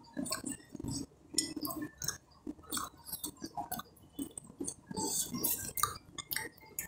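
A person chewing fried catfish close to the microphone, with irregular wet smacks and short crunchy clicks.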